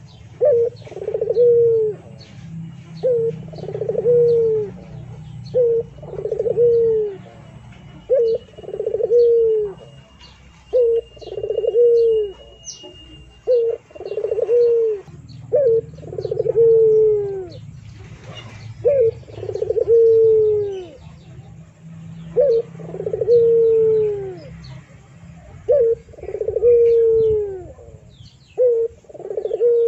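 Repeated bird calls: a short note followed by a longer falling note, about every two and a half seconds.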